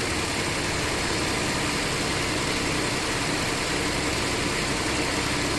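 2008 Cadillac SRX's 3.6-litre V6 running steadily, its speed held a little above idle during an engine-oil flush. It runs quietly, with no chain noise.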